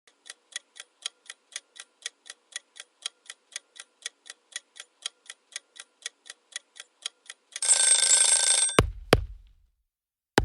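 Countdown-timer sound effect: a clock ticking about four times a second, then an alarm bell ringing for about a second near the end, followed by two sharp knocks.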